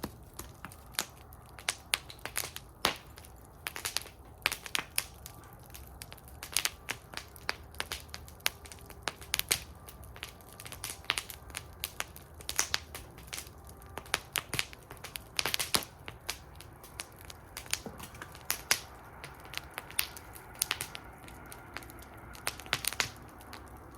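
Wood fire burning in a fire bowl, crackling with irregular sharp pops and snaps over a low steady rumble of the flames.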